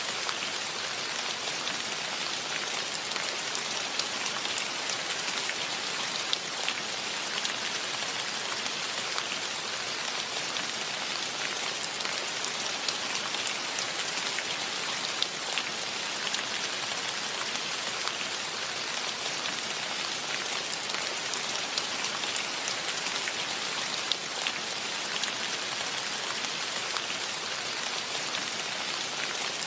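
Steady rain falling, a continuous hiss with a dense patter of individual drops ticking on surfaces.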